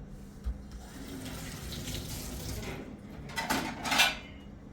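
Water running, with a louder rush of noise about three and a half seconds in.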